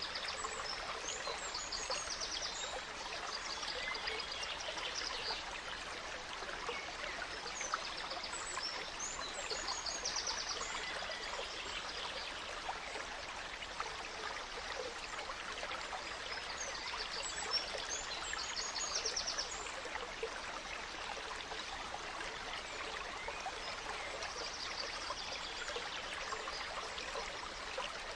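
A gentle stream trickling and splashing steadily. Small forest birds call over it in short high chirps and rapid trills every few seconds.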